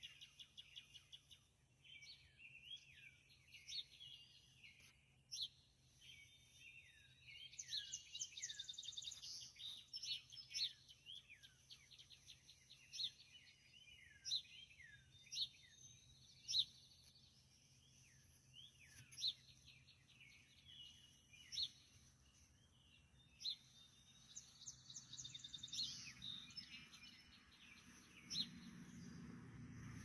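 Songbirds singing faintly: repeated downward-slurred whistles, quick trills and sharp chip notes from several birds.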